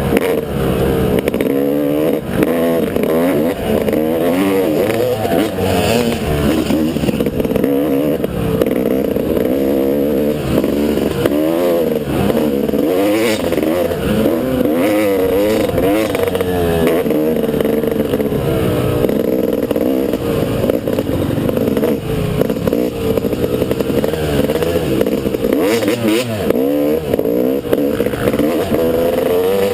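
Motocross dirt bike engine being ridden, its revs rising and falling over and over as the throttle is opened and closed.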